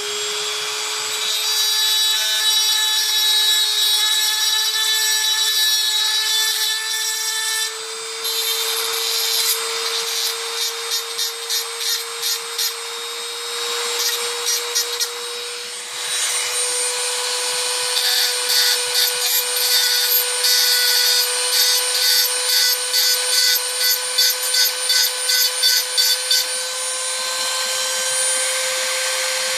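High-speed rotary tool running at a steady high pitch, its aggressive bit grinding and cutting away metal from a die-cast toy car body. From about halfway through, the cutting comes in rapid repeated passes as the bit bites into the metal.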